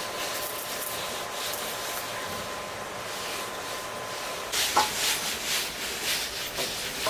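Rough scraping and rubbing, steady at first and then louder and more uneven from about two-thirds through.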